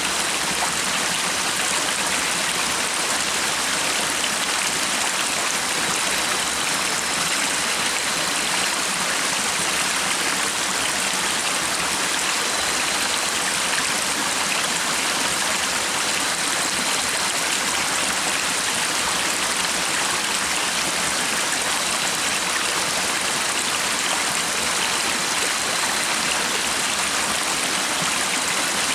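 Stream water running steadily with an even rushing sound. A few faint, short high bird notes come through now and then.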